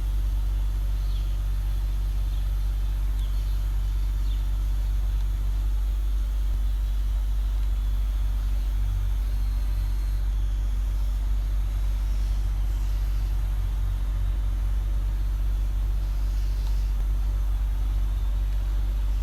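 Steady low rumble of road traffic and running vehicle engines, with a constant deep hum underneath. A few short high chirps sound in the first few seconds.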